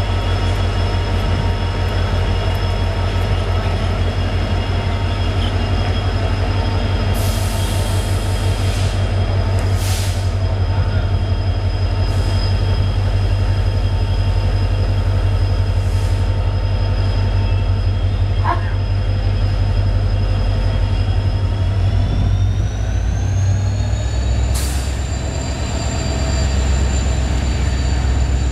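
Indian Railways passenger train pulling out of a station, heard from inside a coach: a steady low rumble with a high whine that rises in pitch about three-quarters of the way through as the train gathers speed. A few brief high hisses come along the way.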